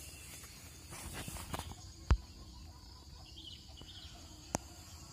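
Quiet outdoor ambience with a few soft knocks and clicks, a sharper low thump about two seconds in, and faint bird chirps.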